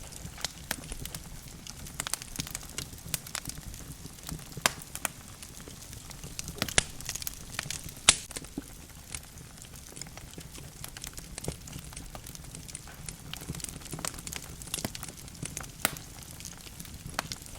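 Wood logs burning in a fireplace, crackling with irregular snaps and pops over a low steady rumble of the flames. The sharpest pop comes about eight seconds in.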